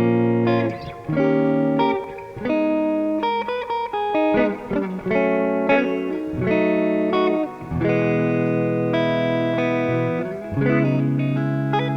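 Electric guitar playing held chords that change every second or two, the instrumental opening of a song before the vocals come in.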